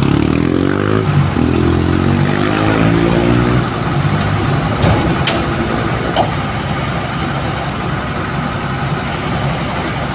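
A motor vehicle's engine running with its pitch shifting for the first few seconds, then steady road and engine noise with a few sharp clicks.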